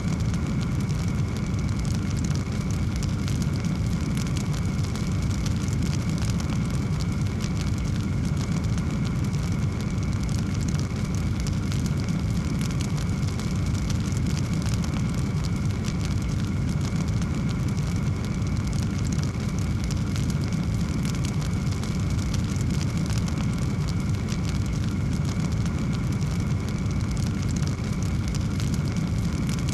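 Wood fire burning in a fireplace: a steady low rumble of flame with dense, small, continuous crackles. A faint steady high tone runs underneath.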